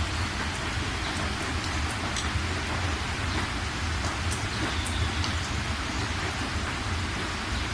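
Steady rain falling on a surface, with scattered sharper drop hits and a steady low rumble underneath.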